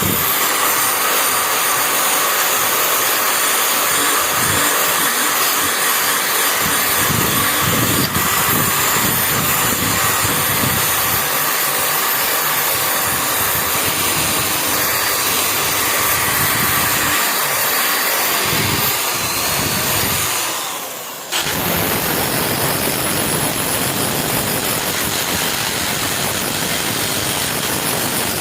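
Electric power tool running steadily on the rusty steel blade during rust removal and grinding. About twenty seconds in, the sound fades briefly, then comes back abruptly.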